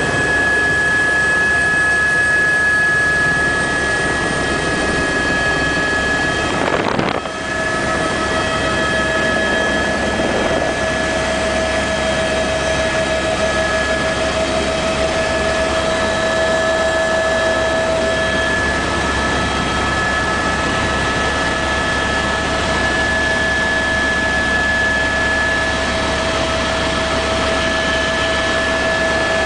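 Steady loud motor drone with high, constant whining tones over it, briefly broken about seven seconds in.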